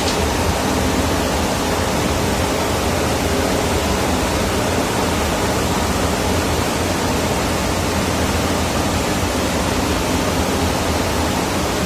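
Ship's engine-room machinery running: a loud, steady, even noise with a low hum underneath that holds unchanged throughout.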